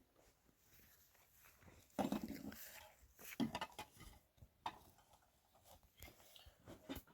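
An animal calls briefly twice, about two seconds in and again about a second later, among small knocks and rustles.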